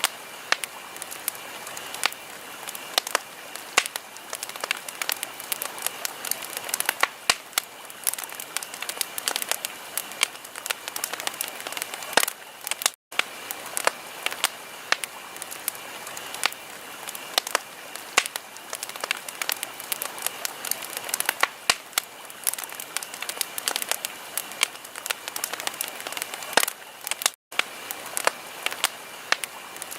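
Wood fire crackling, with frequent sharp pops and snaps over a steady hiss. The sound cuts out for a split second twice, about a third of the way in and near the end.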